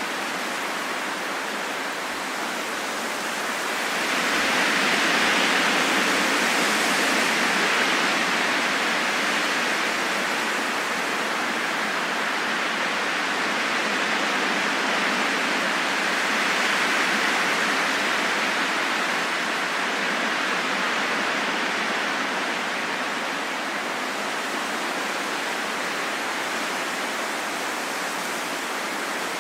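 Steady rain falling in a forest, an even hiss of many drops with no distinct patters, swelling slightly about four seconds in and easing off gradually.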